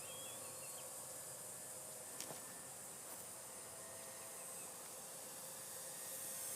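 Steady high hiss of insects with the faint, distant hum of a T-28 Trojan R/C model plane's motor, which grows louder near the end as the plane approaches. A single light click about two seconds in.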